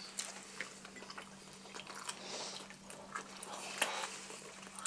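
People chewing slices of pizza, with soft, scattered mouth smacks and small clicks, over a faint steady low hum.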